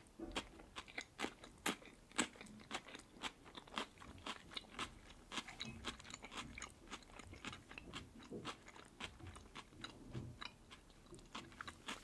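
A slice of fresh cucumber bitten and chewed close to the microphone: a string of crisp crunches, several a second and irregular.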